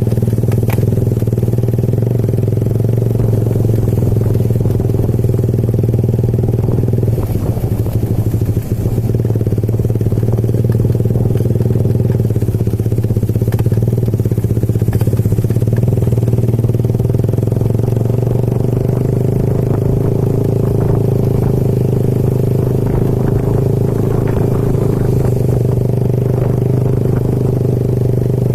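Motorcycle engine running steadily at an even speed, with some light clattering.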